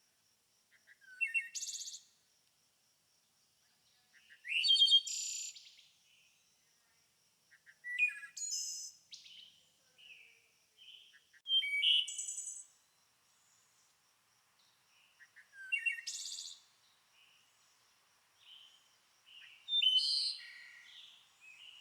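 A songbird singing a short, quick phrase of high notes and trills, repeated about every four seconds. Softer chirps fall between the phrases, and a faint steady high tone runs underneath during the first half.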